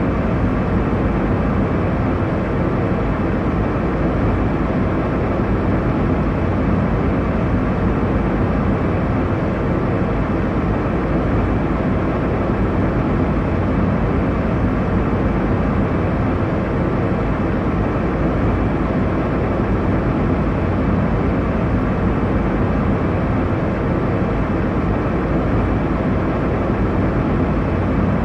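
Airliner cabin noise in flight: a steady, even rush of engine and airflow noise, heaviest in the low end, with no change.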